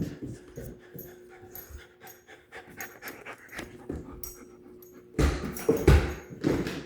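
A puppy panting during play, with short clicks and scuffles throughout and a louder burst of scuffling and breathing about five seconds in.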